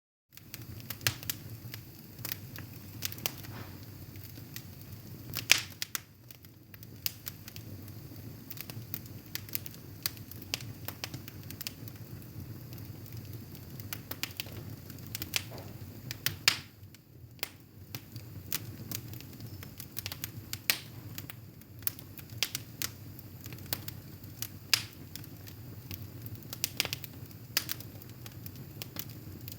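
Wood fire burning in a fireplace, crackling and popping at irregular intervals, with a few sharper pops about 5 s and 16 s in.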